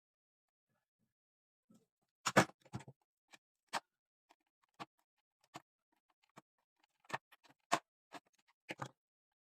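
Irregular clicks and light knocks of tools and radio parts being handled, about a dozen over several seconds, the loudest a double knock about two seconds in.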